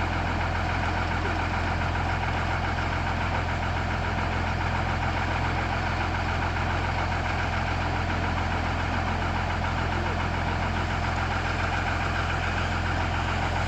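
An engine running steadily at idle, with an even, unchanging drone.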